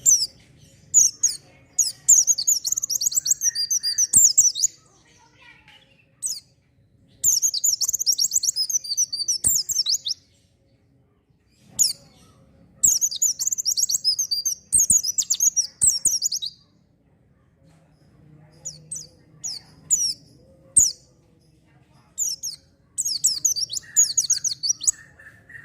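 White-eye (pleci) singing in fast, high twittering phrases of two to three seconds, four times over, with single sharp chips between the phrases.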